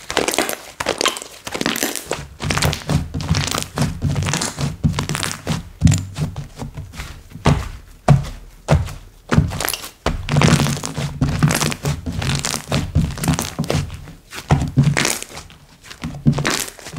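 Slime being squished and pressed by hand, a fast, uneven run of sticky pops and clicks with dull thuds underneath.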